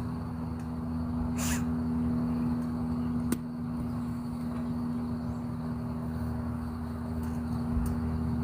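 A steady low mechanical hum, with a brief rustle about a second and a half in and a single sharp click a little after three seconds.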